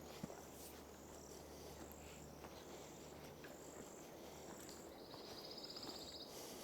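Faint insect calls: short high notes repeating about once a second, then a rapid pulsing trill about five seconds in.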